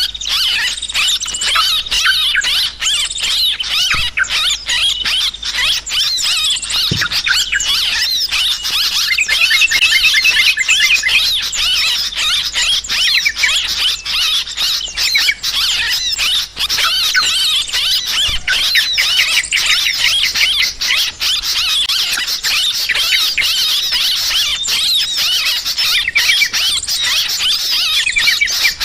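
A noisy chorus of many yellow-vented bulbuls (trucukan) calling at once: dense, overlapping, chattering chirps and trills without a break.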